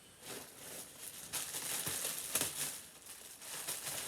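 Crinkling and rustling of packaging being handled, irregular and busiest in the middle stretch.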